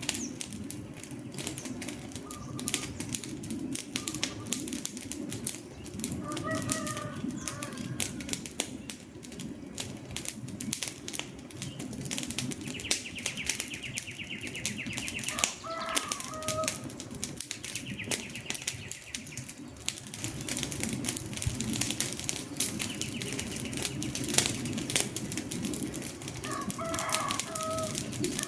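Wood fire crackling steadily with a thick stream of small pops and a low rumble of burning. Short bird calls come in groups about a quarter of the way in, around the middle and near the end, and a buzzy high trill sounds three times in between.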